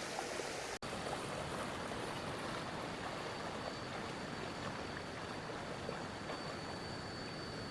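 Stream water flowing and rushing steadily, broken by a brief cut about a second in, with a faint thin high tone in the background.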